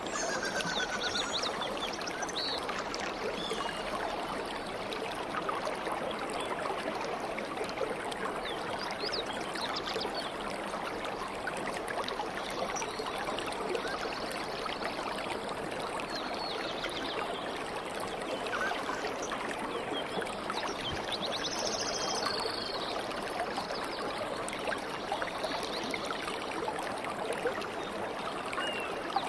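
Water flowing steadily in a stream, with short bird chirps and trills coming now and then above it.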